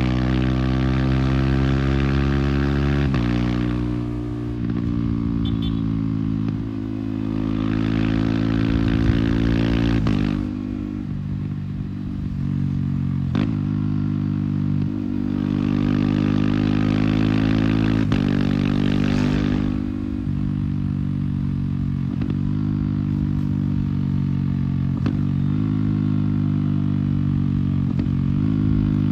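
Yamaha R15's single-cylinder engine through an MTG aftermarket exhaust, ridden under way. Its note climbs and then steps in pitch several times as it changes gear.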